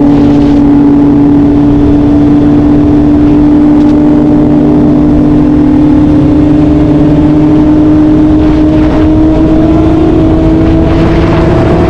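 BMW S1000RR's inline-four engine running at high, steady revs under way, its pitch rising slowly across the stretch.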